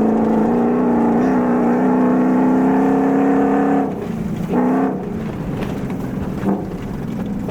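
Engine of a long-travel 2000 Toyota Tundra pulling hard at steady high revs, climbing slightly. It lets off about four seconds in, blips briefly half a second later, then drops to a lower, rougher drone.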